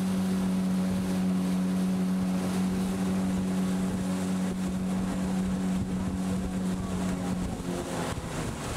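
Boat motor running at a steady pitch while the boat cruises on the river, with wind buffeting the microphone. The engine note drops away about a second before the end.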